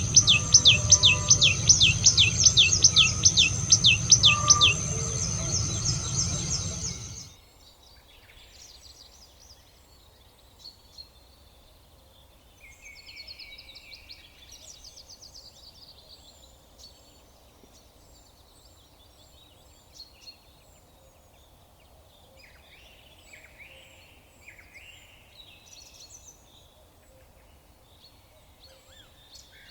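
Wild birds singing. For the first seven seconds a loud recording holds a steady high-pitched buzz, a bird's fast run of descending notes and a low rumble; it cuts off abruptly, leaving quieter, scattered chirps and short songs of several birds.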